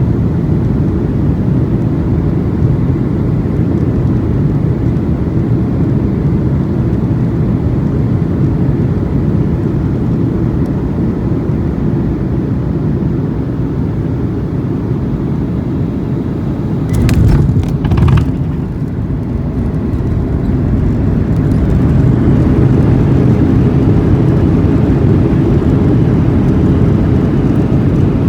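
Airliner cabin noise during landing: a steady low rumble of engines and airflow. Two brief thumps come about 17 seconds in, and the rumble grows a little louder from about 22 seconds.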